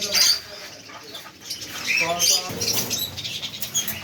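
Pet lovebirds chirping in short, high-pitched calls, with wing flapping.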